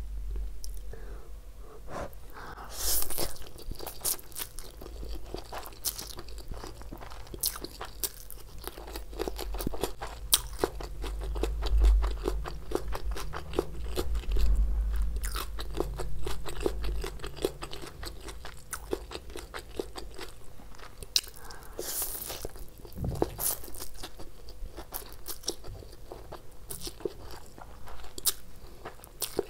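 Close-miked chewing of a mouthful of vegetable chowmein noodles: a steady run of small wet mouth clicks and crunches, with louder bursts about three seconds in and again a little after twenty seconds.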